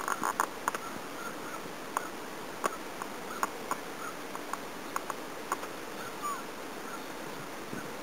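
Swallows giving short, sharp chirps, scattered irregularly about a dozen times, over the steady rush of a flowing river.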